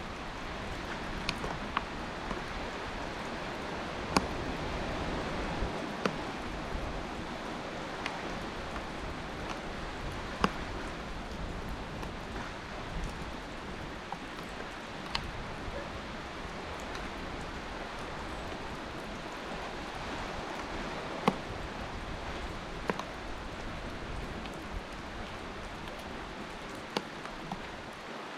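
Steady wash of water on a snowy beach shore, with scattered sharp ticks at irregular intervals, a few of them louder.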